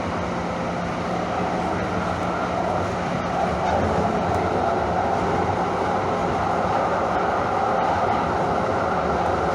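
Calgary Transit CTrain light-rail car running: a steady rumble of wheels on track that grows a little louder about four seconds in.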